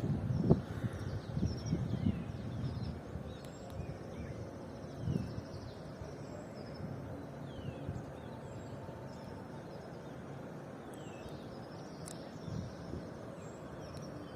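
Small birds chirping, short quick falling calls repeated throughout, over steady outdoor background noise, with low rumbling bumps in the first few seconds.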